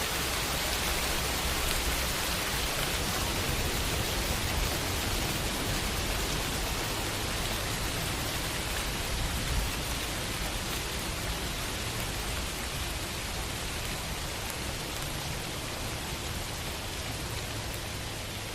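Steady rainfall on a window, an even hiss of rain with a faint patter of individual drops, easing slightly in loudness over the stretch.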